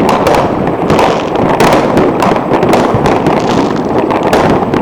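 Fireworks and firecrackers going off all around, a dense continuous crackle of many overlapping bangs and pops.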